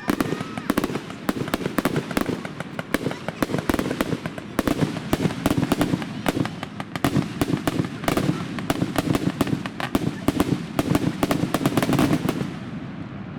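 Fireworks display: a dense, rapid crackling of many small pops, several each second, which thins out near the end.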